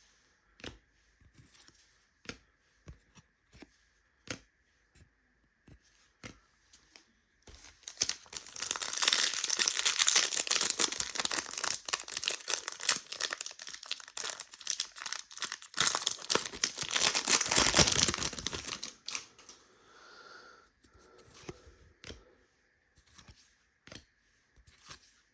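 Scattered light clicks and taps of trading cards being handled, then about eleven seconds of loud tearing and crinkling as plastic trading-card pack wrappers are ripped open, stopping about nineteen seconds in.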